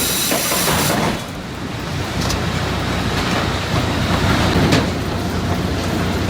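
Sawmill log-handling machinery running: a steady mechanical rumble and clatter, changing in character about a second in.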